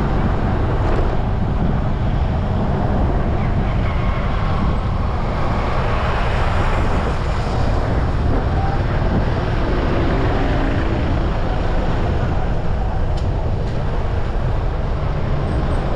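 Steady road and traffic noise with a heavy low rumble, heard from a moving motorbike.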